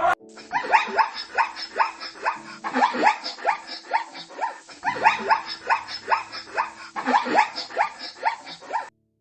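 Dog barking in a rapid run of short, sharp barks, about three a second, each falling in pitch; the barking cuts off near the end.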